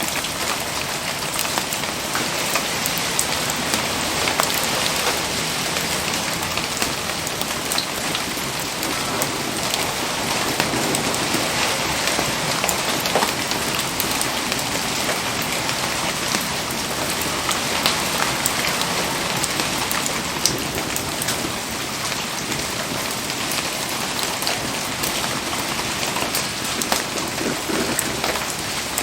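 Steady rain falling, a constant hiss dotted with many small, sharp ticks of drops.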